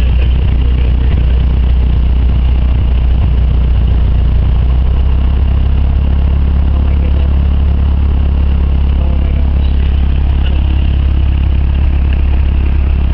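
Cessna 172's piston engine and propeller running steadily, heard loud from inside the cabin as a constant deep drone.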